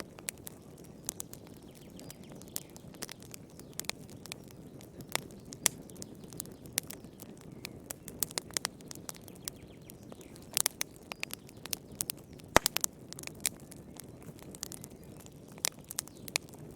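Wood fire crackling in a fireplace: irregular sharp pops and snaps over a steady low rush of burning, with one louder pop about two-thirds of the way through.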